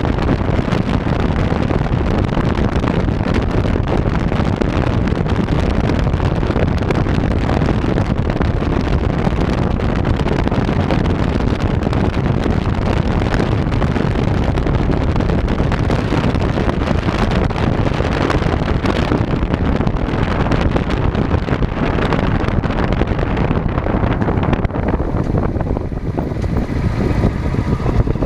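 Wind buffeting a chest-mounted GoPro HERO3+ during a bicycle ride: a steady rushing noise, heaviest in the low end, that eases a little near the end.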